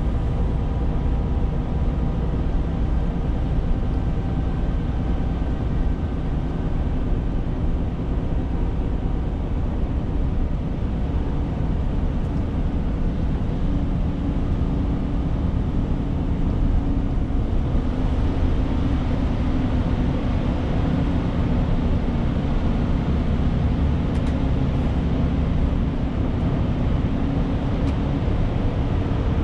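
Renault T520 truck on the move: steady engine drone with road and wind noise. About two-thirds of the way through, the hiss gets stronger and the engine note shifts.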